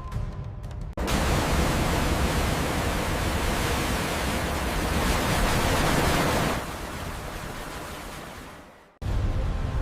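A loud, even rushing noise starts abruptly about a second in. It drops to a lower level around six and a half seconds in, then fades out.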